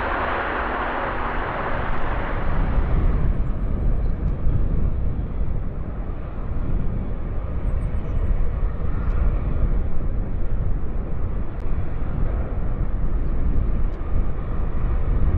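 Jet airliner noise at the airport: a loud roar fades over the first three seconds, leaving a steady low rumble.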